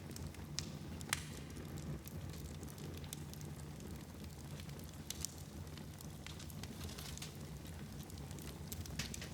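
Wood fire burning in a fireplace: a steady low rumble of flames with scattered sharp crackles and pops, the loudest pop about a second in.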